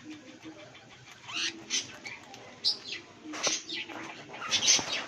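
Pet cockatiels chirping, a string of short calls that sweep up and down in pitch, with the loudest about three and a half and four and a half seconds in.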